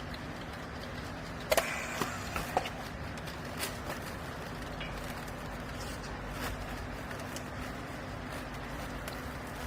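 Hydraulic baler's power unit running with a steady hum, with a few sharp metallic knocks about a second and a half in and single clicks later.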